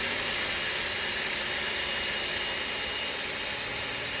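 Small electric drill running at high speed, a steady high-pitched whine, drilling a hole in a car headliner for a starlight fiber.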